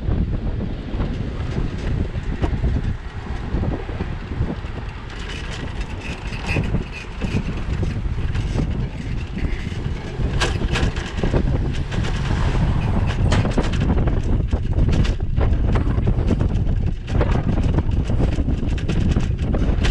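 Wind buffeting the microphone of a bicycle-mounted action camera while riding, a steady low rumble with frequent small knocks and rattles from the bike over the street. A faint higher-pitched ring comes in briefly a few seconds in.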